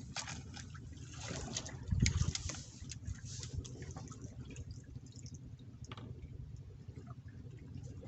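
Water splashing and trickling, with scattered small clicks and knocks and a louder surge about two seconds in.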